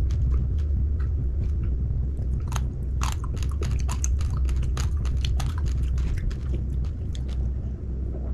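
Close-miked chewing of uncooked raw rice grains: a fast run of sharp crunching cracks as the grains break between the teeth, over a steady low rumble.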